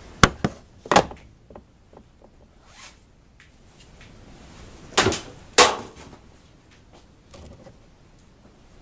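A series of sharp knocks and clicks from hard objects being handled: three quick ones in the first second, then two louder ones about five seconds in, with faint rustling between.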